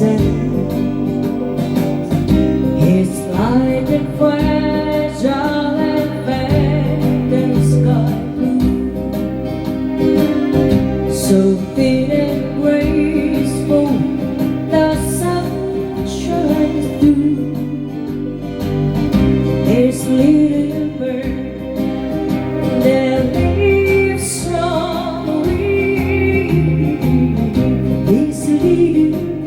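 A woman singing over acoustic guitar.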